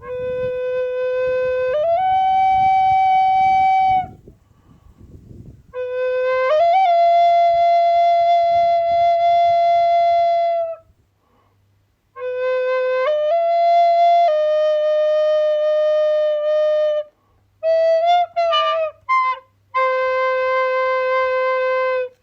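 A flute-like wind instrument playing a slow melody of long held notes that step up in pitch, with short slides and quick ornaments between them, in several phrases separated by brief pauses.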